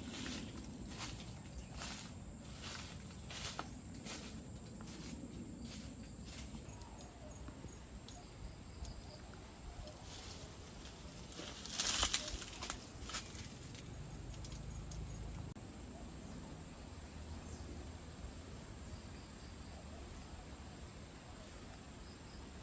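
Quiet rural ambience with a steady high-pitched insect drone. Scattered rustling and crackling runs through the first several seconds, and one louder rustle comes about twelve seconds in.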